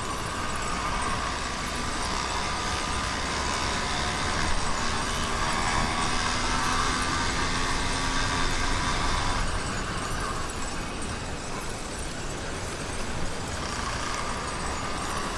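YD100 two-stroke motorized-bicycle engine running under way, mixed with wind noise; it eases off about ten seconds in and picks up again near the end.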